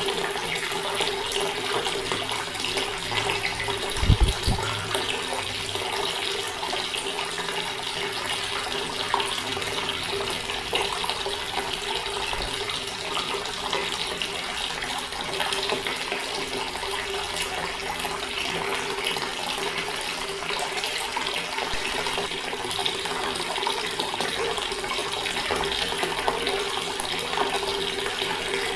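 Water tap running steadily, an even splashing flow with a faint steady hum under it. A brief low thump about four seconds in.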